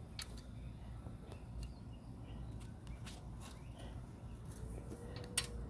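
Scattered light clicks and taps from hand work on an aluminium screen frame and spline tool, with one sharper click near the end, over a steady low outdoor rumble.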